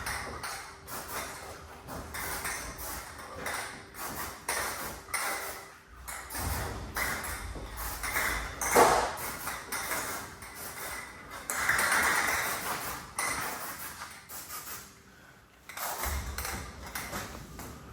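Garage door and its opener in operation: a run of metallic pings, clanks and rattles from the door's steel tracks, rollers and hardware, with a low rumble from about six to nine seconds in and again near the end.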